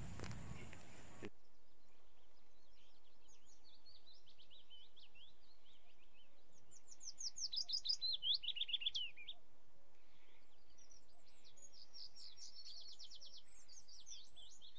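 Small birds chirping in quick, high, repeated runs, loudest and fastest in the middle. A steady background noise cuts off abruptly about a second in.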